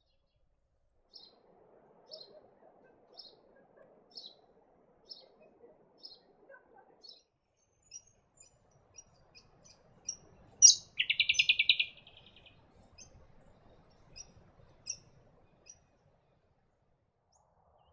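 Brown honeyeater calling: a run of short high notes about one a second, then sharper scattered notes and a loud rapid trill about eleven seconds in.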